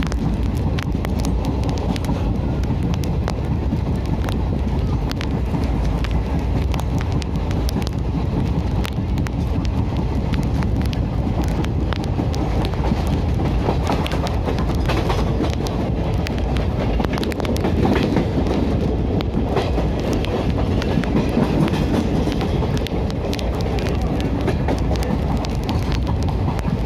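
Indian Railways passenger train, the Dwarka Express, running steadily along the track. Its wheels clatter over rail joints in a stream of sharp clicks over a continuous low rumble.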